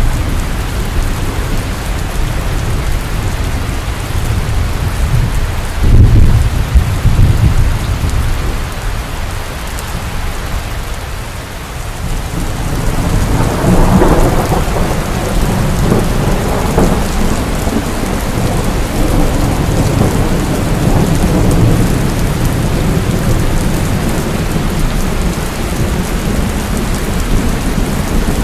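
Heavy rain pouring steadily through a thunderstorm. A sudden deep thunderclap comes about six seconds in, and a second peal, crackling higher, builds just before halfway and rumbles on.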